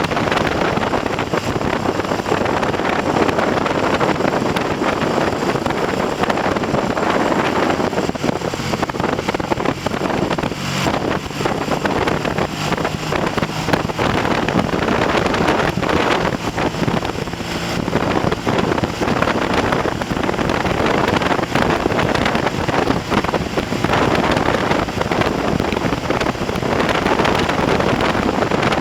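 Heavy wind noise buffeting the microphone on a moving motorcycle, with the Triumph TR6's parallel-twin engine running underneath and showing through faintly midway.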